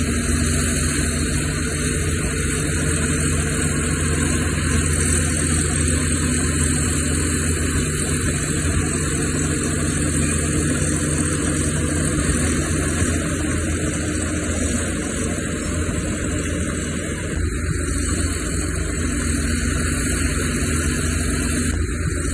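Diesel engines of heavy earthmoving machinery, a crawler bulldozer and dump trucks, running steadily at work.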